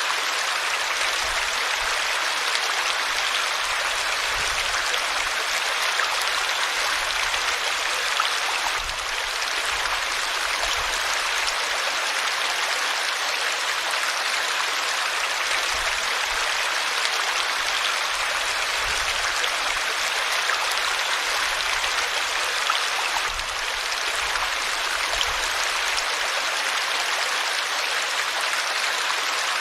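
River water flowing and splashing over rocks: a steady rushing noise.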